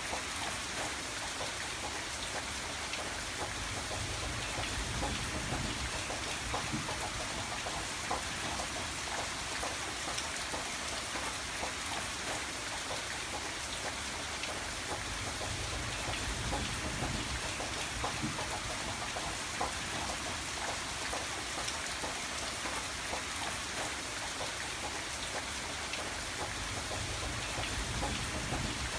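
Steady rainfall, with many separate drops ticking on a hard surface over an even hiss.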